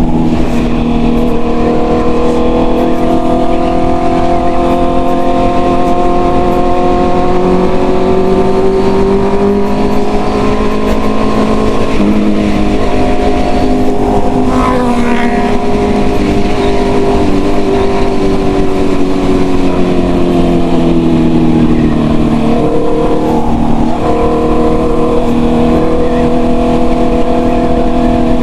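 Honda CB650R's inline-four engine through a full-system exhaust, running at a steady cruise with the revs slowly rising and falling. There is a gear change a little under halfway through, and the revs dip and pick up again about three-quarters of the way in.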